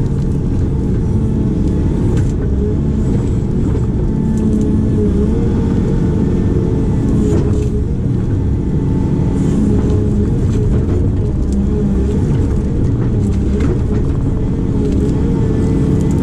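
Diesel engine of a heavy digging machine running steadily under load, its pitch wavering slightly.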